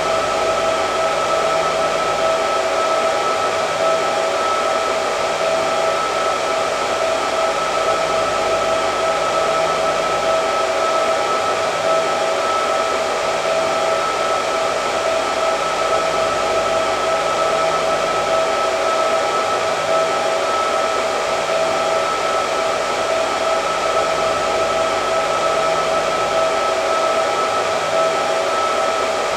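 Hair dryer running steadily: an even rush of air with a steady whine from the motor.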